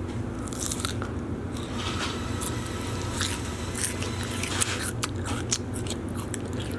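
Close-miked chewing and crunching of salad, with irregular crisp bites and crackles, made as ASMR eating sounds.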